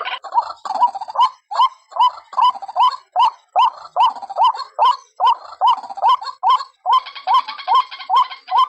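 White-breasted waterhen calling its repeated 'ruak' note, a lure call used to draw the birds in. The calls come quickly and evenly, about two and a half a second, each a short note that hooks upward in pitch.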